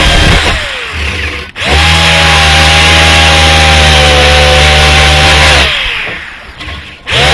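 Electric grinder stripping paint from an old metal sign, running at a steady pitch. It is let off and winds down twice, each time starting back up within about a second.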